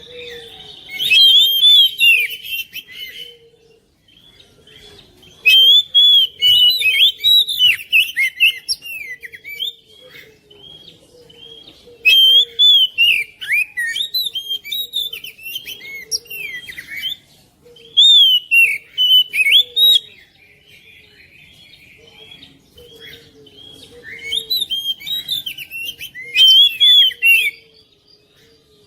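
Oriental magpie-robin (kacer) singing: about five loud bursts of fast, varied whistled phrases with short pauses between them.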